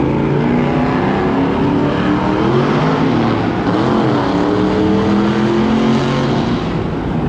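Loud car engines running and revving, several pitches at once, with a quick drop and rise in revs about four seconds in.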